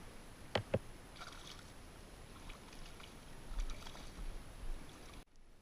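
Faint ambient noise of a fishing boat on a river, a low water-and-hull hiss, with two sharp clicks about half a second in and some light rustling. The sound drops out abruptly just before the end.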